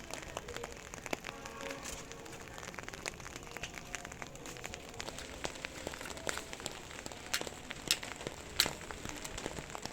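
Rain falling and pattering on surfaces, a dense irregular crackle with a few louder single drips in the second half.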